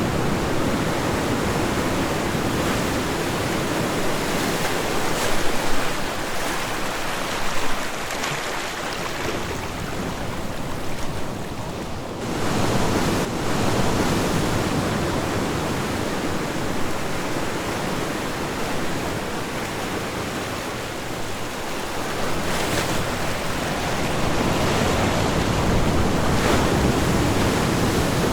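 Ocean waves breaking and washing on a shore, the surf rising and falling in slow swells with a lull about halfway through; some wind on the microphone.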